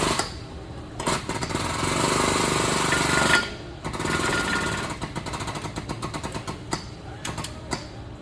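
Air tool hammering rapidly on car body metal in two bursts, the first about a second in and the second a little after the middle, followed by a string of separate short knocks.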